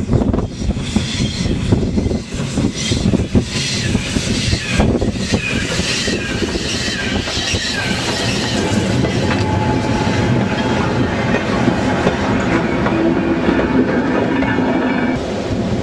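Steam-hauled goods train passing close by: the locomotive goes by at the start, then a line of goods wagons rolls past with a rhythmic clickety-clack over the rail joints and some wheel squeal.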